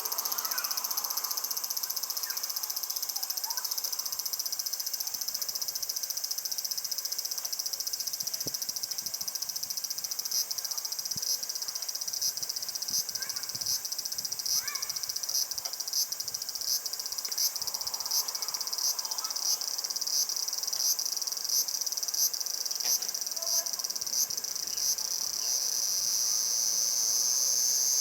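Cicadas singing: a continuous high, shrill buzz. Through the middle stretch a second rhythmic call pulses over it about one and a half times a second, and the buzz grows louder near the end.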